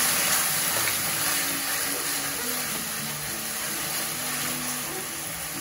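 Sliced onions, mint leaves and ginger-garlic paste sizzling in hot oil in a nonstick kadai, stirred with a wooden spatula. A steady frying hiss, with faint background music underneath.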